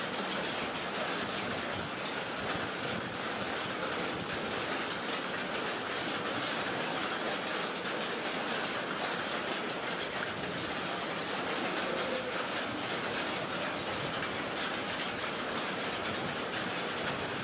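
Heavy rain falling steadily on a lake and trees: an even, unbroken hiss.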